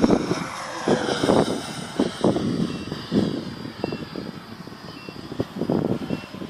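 Electric ducted fan of an RC model jet (ten-blade 70 mm fan on an E-flite BL32 brushless motor) whining in flight, its pitch falling as it passes. Gusts of wind buffet the microphone and are louder than the fan.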